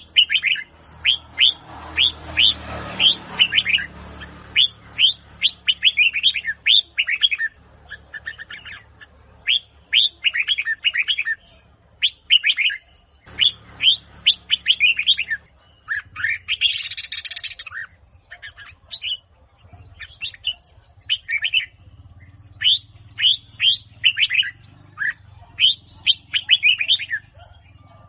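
Red-whiskered bulbul singing: runs of quick, bright chirping notes in repeated phrases with short pauses between them.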